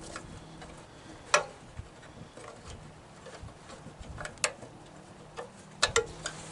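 Scattered sharp clicks and taps of small plastic mower parts being handled and worked apart by hand: one loud click about a second and a half in, another past the middle, and a quick run of three clicks near the end.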